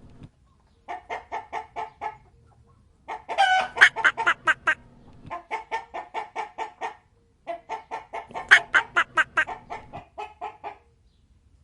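A chicken clucking in quick runs of short, repeated calls, four runs with brief pauses between them.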